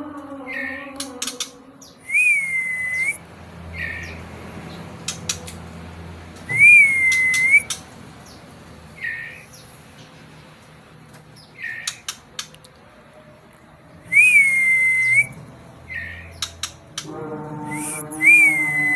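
A songbird calling: a clear whistled note that dips and then rises, followed by a short note, repeated a few times several seconds apart, with occasional sharp clicks between calls.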